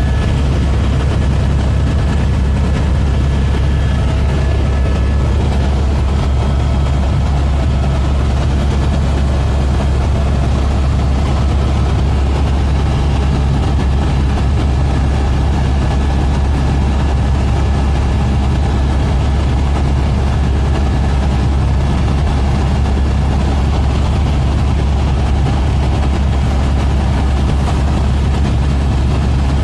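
Helicopter running steadily: a loud, unchanging low drone of engine and rotor with a few faint whining tones above it.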